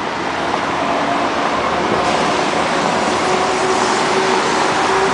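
Steady city traffic noise, with a vehicle engine's even hum over it, slowly getting a little louder.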